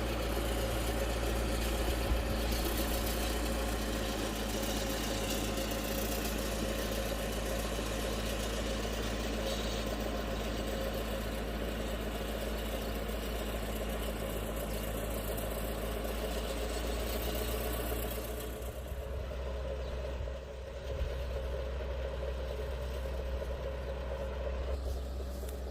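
Tractor engine running steadily, becoming quieter about three-quarters of the way through.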